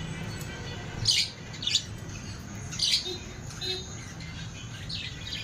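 Small pet parrots squawking: three loud, sharp calls in the first three seconds, then fainter chirps, over a steady low hum.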